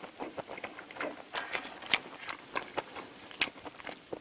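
Close-miked chewing of stir-fried octopus and rice: irregular wet mouth clicks and smacks, a few sharper ones standing out.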